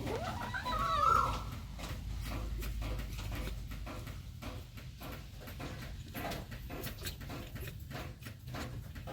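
A cat gives one short, bending meow about a second in, then faint repeated clicks of a cat chewing and lapping at food.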